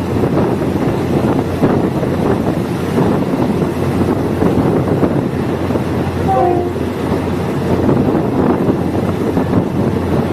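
Diesel multiple unit train running along the track: a steady loud rumble of wheels on rails and engine, with a brief faint tone about six seconds in.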